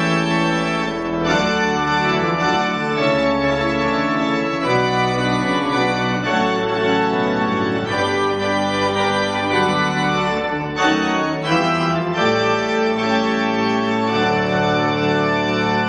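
Organ playing sustained chords that change every second or two.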